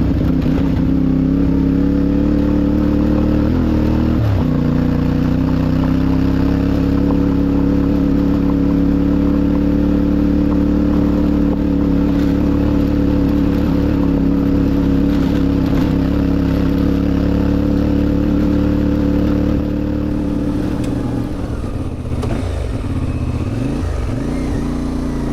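CFMOTO 450MT's parallel-twin engine running at steady riding revs, with a brief dip in revs about four seconds in that comes straight back up. After about twenty seconds it runs a little quieter and the revs rise and fall several times.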